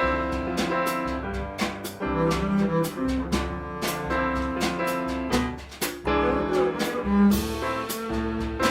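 Live jazz combo playing, with double bass carrying the line under drum kit and other instruments.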